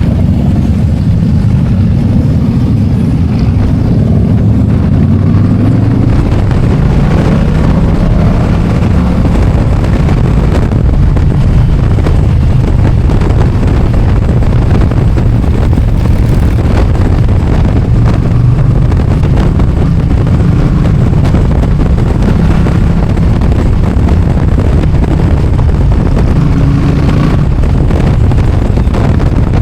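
Motorcycle engine running under way with wind rushing over the microphone; the engine pitch climbs as it accelerates through the first several seconds, then holds steady at cruising speed.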